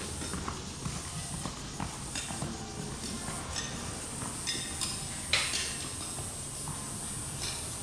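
A horse's irregular hoofbeats as it circles on the lunge line, with one sharper, louder knock about five seconds in, over a steady high-pitched hiss.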